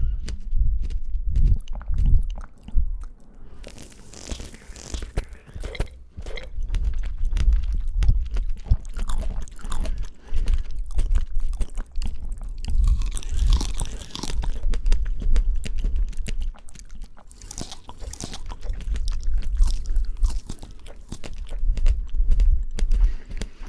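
Close-miked eating of fresh fruit: crisp, crunching bites and wet chewing, with spells of louder crunching a few times.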